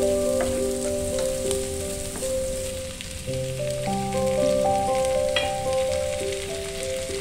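Onions and garlic sizzling in oil in a nonstick frying pan, with a wooden spatula scraping and clicking as they are stirred; tomato wedges are tipped in from a plate about halfway through. A soft melodic background tune plays over it.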